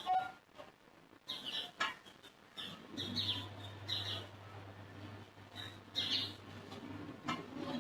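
Birds chirping in short, repeated calls, with a low steady hum starting about three seconds in.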